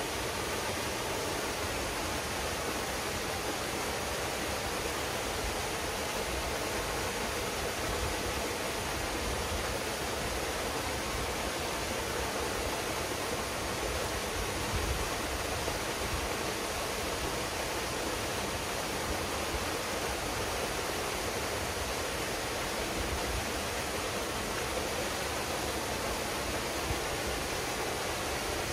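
Waterfall pouring steadily into a pool, a constant even rush of falling water.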